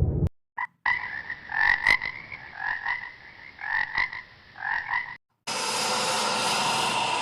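Frog croaking in short repeated bursts, several calls in quick succession. The croaking stops abruptly about five seconds in, and after a short gap a steady buzzing sound starts.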